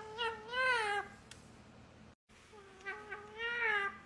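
Grey-blue Alexandrine parakeet vocalising: two drawn-out, wavering, pitched calls, one in the first second and another near the end.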